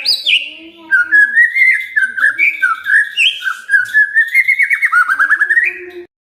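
White-rumped shama (murai batu, Medan type) singing a fast, varied run of clear whistled notes and quick sweeps, breaking into a rapid trill near the end before the sound cuts off abruptly.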